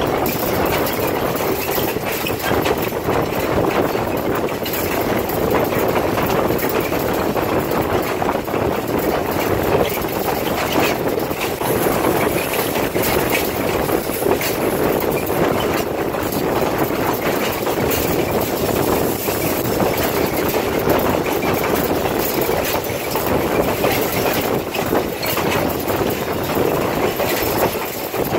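Steady rumble of a passenger train rolling along the track, heard from on board a coach.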